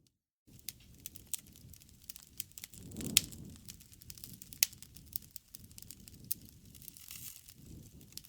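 Wood fire crackling, with a steady run of small snaps over a soft low rumble of flame. It cuts out to silence for about half a second at the start, then a swell and a loud pop come about three seconds in and another sharp pop near the middle.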